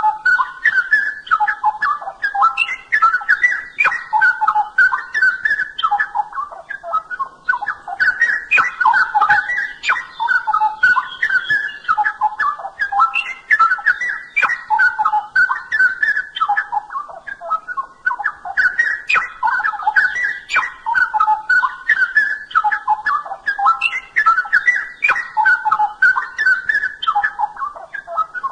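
Straw-headed bulbul (cucak rowo) singing a loud, rich whistled warble in long phrases broken by short pauses, with fainter, sharper high chirps over it.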